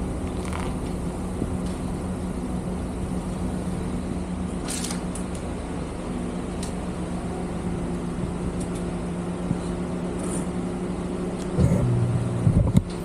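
Car engine idling with a steady hum. About twelve seconds in it gets louder and rougher, with a few knocks.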